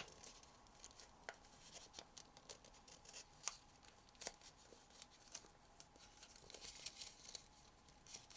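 Sheet of origami paper being folded and creased by hand: faint, scattered small crinkles and clicks, one every half second or so.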